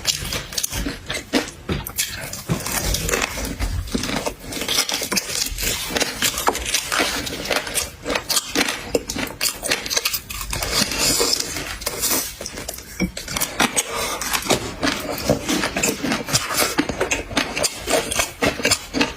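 Close-up eating sounds of someone eating seafood: chewing and crunching, with many sharp clicks and scrapes.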